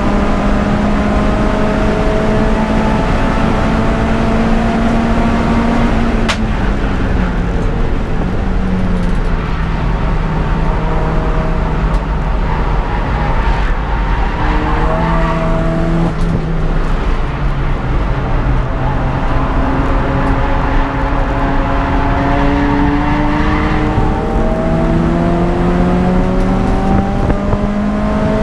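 Peugeot 206 GTI's four-cylinder engine at racing speed, revving up, then dropping sharply in pitch about six seconds in as it slows and changes down. It holds lower through the middle, then climbs steadily again near the end as it accelerates.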